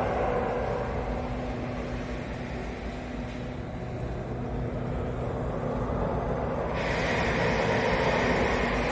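Steady low vehicle rumble with a faint hum; a brighter hiss joins about seven seconds in.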